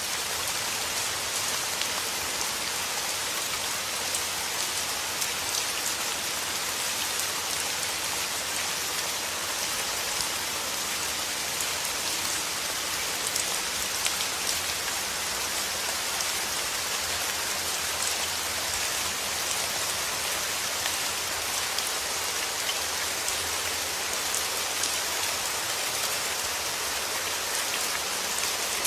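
Steady rain falling, an even hiss of many fine drops pattering on a surface, with no thunder.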